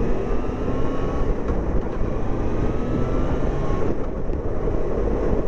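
Yamaha FZ6 motorcycle's 600cc inline-four engine running under way, heard through heavy wind rumble on the rider's microphone. The engine note climbs gently twice.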